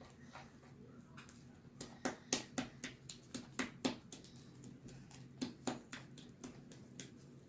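Sticky fluffy slime being kneaded by hand, giving irregular wet clicks and pops, most of them in the middle of the stretch.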